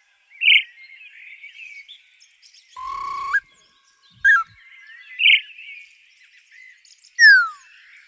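Bird calls: short loud chirps at intervals, a held whistle that rises at its end about three seconds in, and a quick downward-sweeping whistle near the end, over faint steady twittering.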